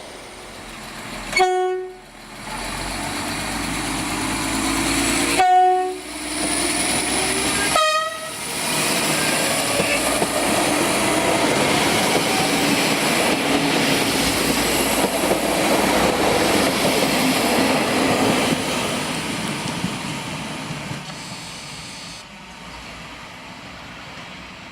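A train sounds three short horn blasts a few seconds apart, then passes with a rising rumble of wheels on rail that builds for several seconds before fading away.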